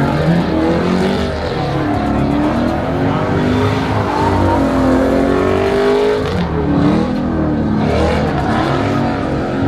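Car engine revving hard and loud, its pitch rising and falling again and again.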